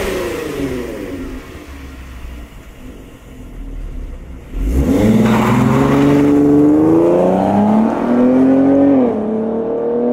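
Chrysler 200 with a Corsa exhaust and Mopar cold air intake: a rev dies back to a rumbling idle, then about halfway through the engine is opened up hard. Its pitch climbs steadily, dips once near the end like a gear change, and climbs again.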